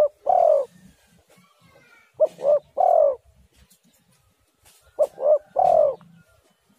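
Spotted dove (tekukur) cooing: a repeated phrase of two short coos followed by a longer coo, about every three seconds. Other birds chirp faintly in the background.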